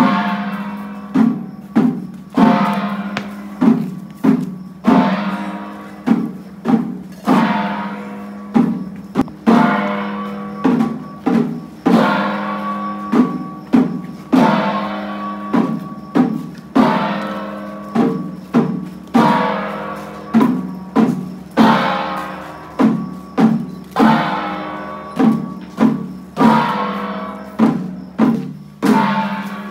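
Traditional Chinese temple-procession percussion: drums and gongs beaten over and over in an uneven rhythm, about one to two strokes a second, each stroke ringing out before the next.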